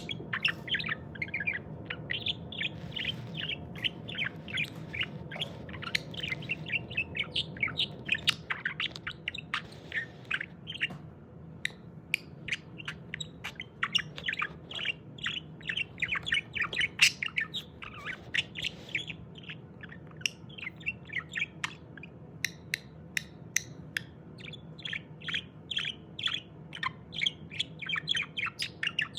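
Budgerigar warbling, with fast runs of short high chirps that pause briefly about eleven seconds in and again near twenty seconds, over a faint steady low hum.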